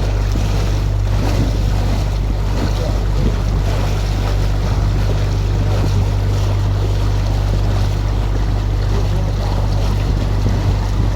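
Open canal tour boat's engine running steadily as a low hum, with water rushing past the hull and wind on the microphone.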